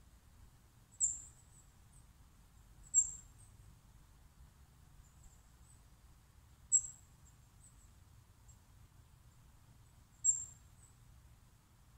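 A small bird giving short, very high-pitched single chirps, four times at uneven intervals a few seconds apart, each sharp and quickly fading, over a faint low rumble of outdoor ambience.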